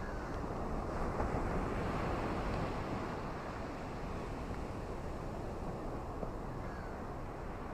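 Ocean surf and rain on a beach: a steady rushing noise that swells about a second in and eases back after about three seconds.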